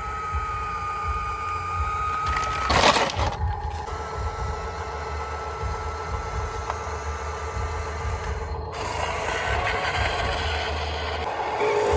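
Huina 1573 radio-controlled dump truck's electric motors whining steadily over a low rumble, with a brief loud scraping rush about three seconds in.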